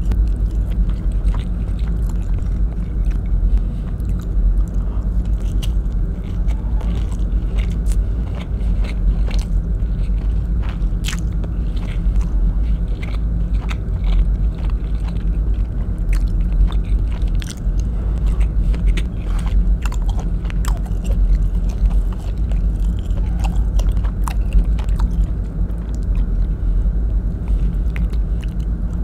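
Close-miked chewing and mouth sounds of someone eating beef adobo in coconut milk by hand, with many short wet clicks and smacks, over a steady low hum.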